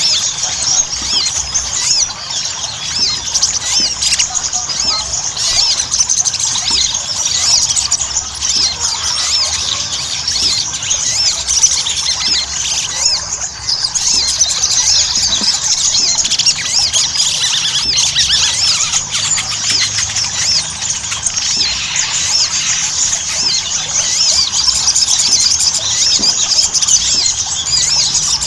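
Sogon (sogok ontong) songbird singing vigorously, a continuous run of rapid, high, chirping notes.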